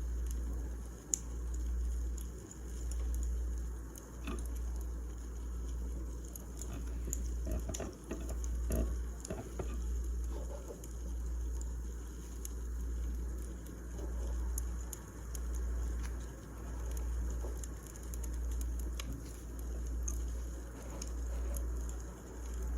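Wood fire crackling, with scattered sharp pops, over a low rumble that swells and fades about every second and a half.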